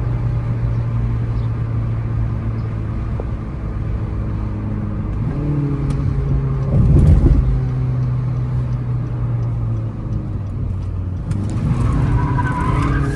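Car engine under acceleration, its note climbing in pitch in steps as it revs up. A loud low surge comes about seven seconds in, and the revs rise again near the end.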